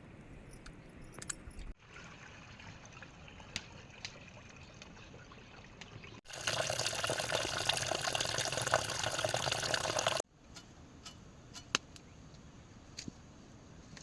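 Running water trickling and pouring, with scattered drips and clicks. A much louder, steady rush of water comes in abruptly about six seconds in and cuts off about four seconds later.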